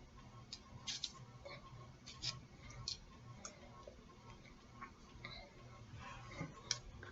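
Faint, irregular clicks and light knocks, a few scattered over several seconds, over a low steady hum.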